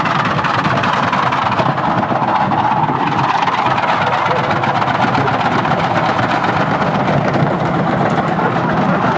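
Washing machine running on a high-speed spin while burning, a loud steady mechanical noise from its motor and drum.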